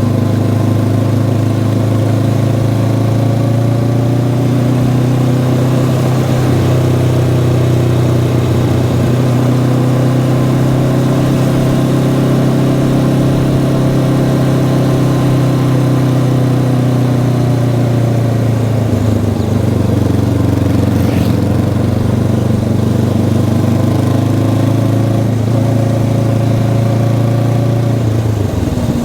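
Honda CB500X's stock parallel-twin engine running steadily while the motorcycle is ridden. The engine note dips briefly about two-thirds of the way through and falls away near the end.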